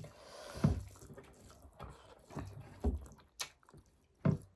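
Eating sounds: a handful of short, wet smacks and clicks from chewing and handling food.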